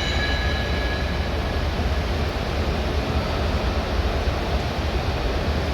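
Steady low rumble and hiss of background machine-like noise, with a faint high steady tone during the first second or two.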